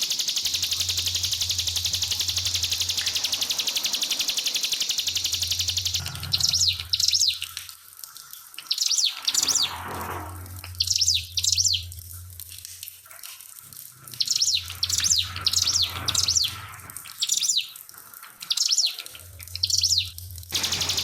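Trickling water, a steady high hiss, gives way about six seconds in to a ciblek pinus (a prinia) singing in short, rapid bursts about a second apart. The trickle comes back near the end.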